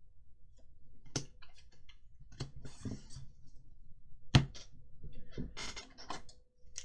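Trading cards and booster-pack wrappers being handled: scattered sharp clicks and taps with short rustles, the loudest tap about four and a half seconds in.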